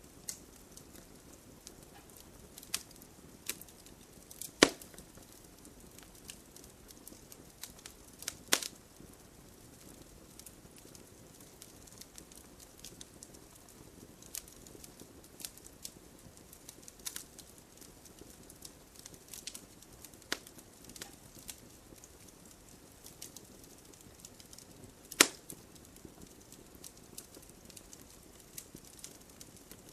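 Wood campfire crackling: a steady low hiss with scattered sharp pops and snaps. The loudest pops come about five, nine and twenty-five seconds in.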